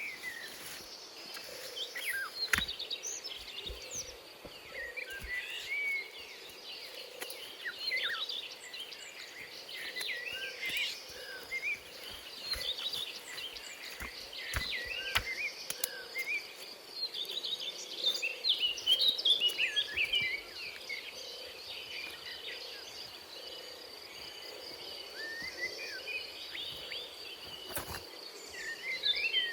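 Tropical forest ambience: many birds chirping and calling in short, varied phrases over a steady high insect drone, with a few faint knocks.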